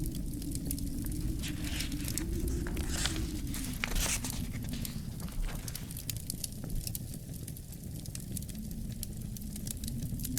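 Wood fire burning in a fireplace: frequent sharp crackles and pops over a steady low rumble, with a brief hiss about three to four seconds in.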